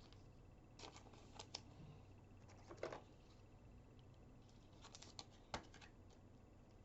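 Near silence broken by faint, scattered clicks and soft taps, about a dozen in all, the loudest about three seconds in.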